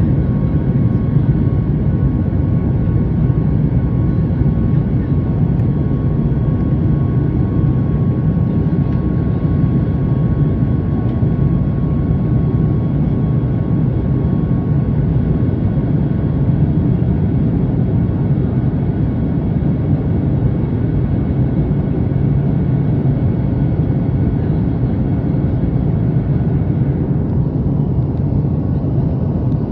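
Steady cabin roar of a Boeing 737 MAX 8 in flight, its CFM LEAP-1B turbofans and the airflow heard from inside the cabin as a deep, even rumble. Faint steady whining tones sit above the rumble, and one of them fades out about halfway through.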